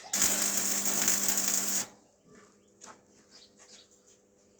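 A power tool runs for about a second and a half, then cuts off, followed by light clicks and taps.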